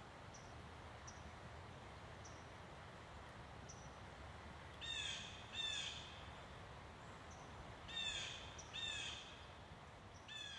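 Birds calling outdoors: pairs of short falling calls about five seconds in and again about eight seconds in, with one more near the end, and faint high chirps from another bird scattered throughout, over a steady low background rumble.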